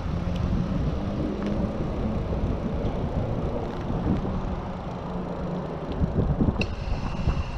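Riding noise from a moving Specialized Sirrus bicycle: wind rushing over the GoPro microphone and tyre and road rumble. A short high-pitched tone sounds about a second before the end.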